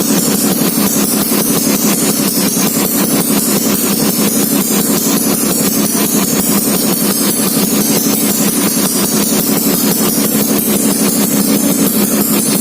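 Yamaha Mio scooter's single-cylinder four-stroke engine, bored up to 155 cc with big valves, idling steadily while being warmed up.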